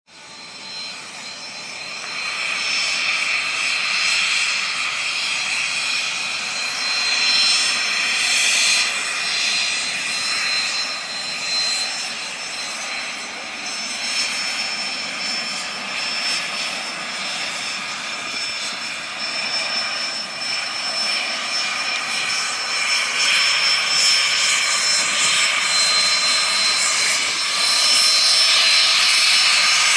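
Cessna Citation CJ1 business jet's twin Williams FJ44 turbofan engines running, a steady high whine over a rushing noise. It fades in at the start and grows louder near the end.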